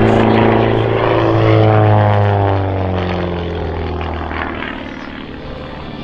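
Pitts S-1S Special biplane's piston engine and propeller running loud as it flies past. The engine note drops in pitch as it goes by and then fades somewhat.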